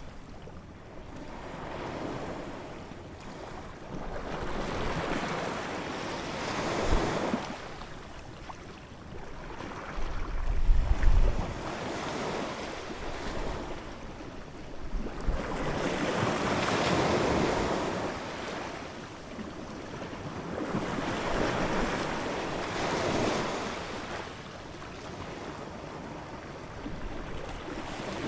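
Ocean waves breaking and washing on the shore, the surf swelling and fading in surges every few seconds. A low rumble comes with the heavier waves about ten seconds in.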